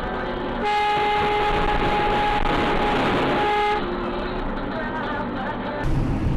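A car horn sounding one long steady blast of about three seconds over traffic noise, followed by a louder low road rumble near the end.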